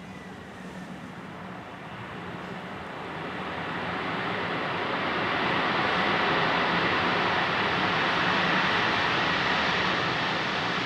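Airliner passing close by: its engine noise swells over several seconds to a steady peak, then begins to ease off.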